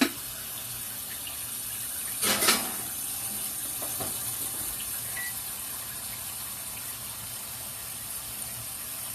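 Kitchen tap running with a steady hiss. There is a knock at the start and a short clatter about two and a half seconds in.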